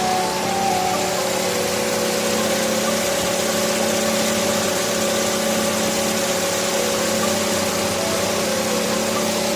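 Toyota Vitz running with a steady engine and air-rush noise and no change in level, a soft music melody playing over it.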